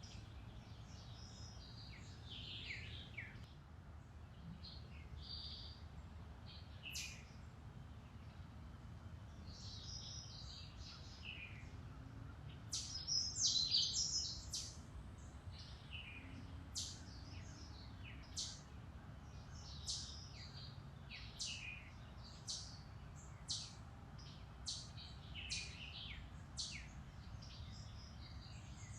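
Woodland songbirds chirping and singing, several calls overlapping. A burst of song about halfway through is the loudest, then a run of short sharp chirps repeats about once a second. A low steady rumble sits underneath.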